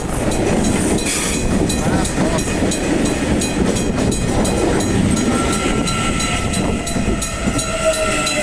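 CPTM electric commuter train running on the rails close by, a loud, steady rumble of wheels and cars. In the second half a thin whine appears and slowly falls in pitch.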